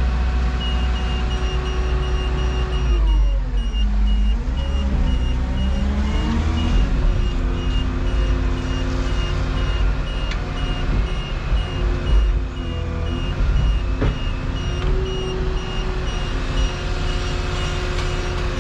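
Volvo EC235EL excavator's diesel engine running hard, its revs sagging under hydraulic load a few seconds in and then climbing back. A high-pitched beeping alarm repeats about twice a second throughout.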